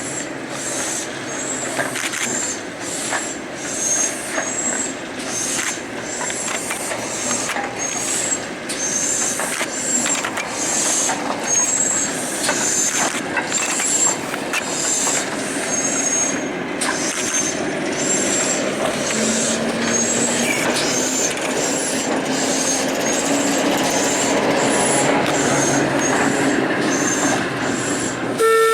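Train running along the track, with repeated high-pitched wheel flange squeal and rail clicks over a steady running noise. A low steady hum comes in during the second half, and a train horn begins right at the end.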